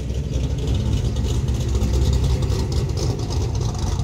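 Holden Commodore's V8 engine running while parked, a deep, uneven exhaust rumble heard from behind the car, growing a little louder in the first second.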